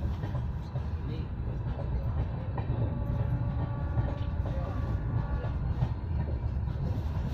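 Passenger train coach in motion, heard from inside: a steady low rumble of the wheels running on the track.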